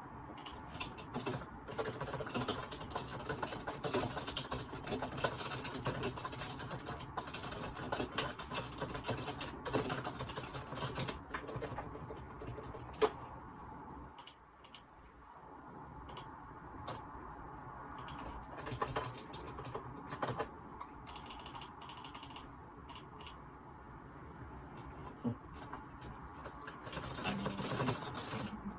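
Typing on a computer keyboard: a run of quick, irregular keystrokes, easing off briefly about halfway through, picked up by a phone microphone.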